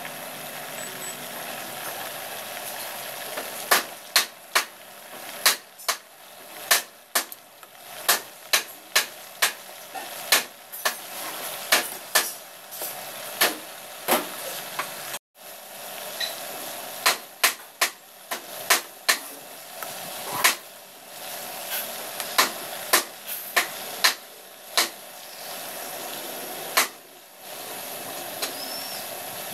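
Chicken pieces frying in oil in a pan: a steady sizzle with sharp, irregular pops of spattering oil, one or two a second, from a few seconds in until near the end. The sound cuts out for a moment about halfway.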